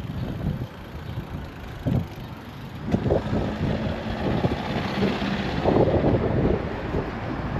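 Wind rumbling in gusts on a bike-mounted GoPro's microphone during a ride, with traffic noise swelling for a few seconds around the middle.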